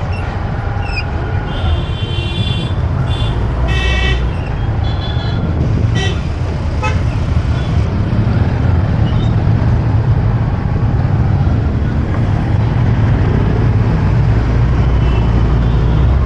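Road traffic heard from a moving motorbike: a steady low rumble of engine and wind, with several short vehicle horn toots in the first few seconds.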